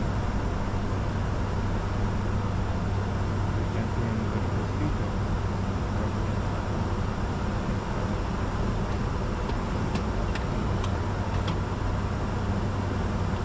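Steady flight-deck noise of a Bombardier Challenger 605 under way: engine and airflow rumble with a constant low hum. A few faint clicks come about ten seconds in.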